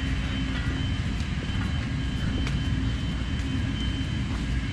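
Tractor engine running steadily, a low even rumble with a faint high steady whine above it.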